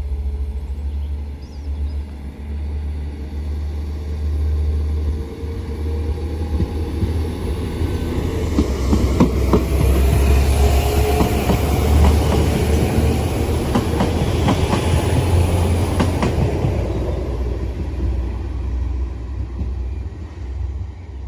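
Northern Ireland Railways Class 4000 diesel multiple unit pulling away and passing: a steady low engine rumble that swells to its loudest about halfway through, with wheels clicking over rail joints, then fades.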